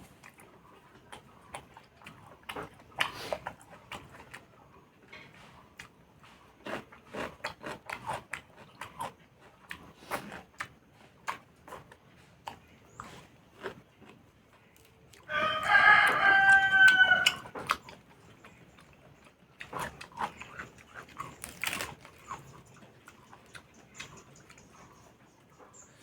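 Close-up eating sounds: chewing and wet mouth clicks of someone eating pork, irregular and ongoing. A little past halfway a rooster crows once for about two seconds, the loudest sound.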